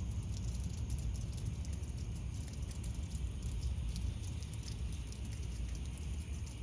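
Steady rain pattering, many fine drop ticks over a constant low rumble.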